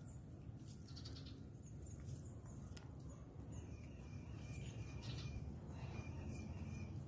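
Small birds chirping now and then in short high notes over a steady low outdoor rumble, with one brief knock a little under three seconds in.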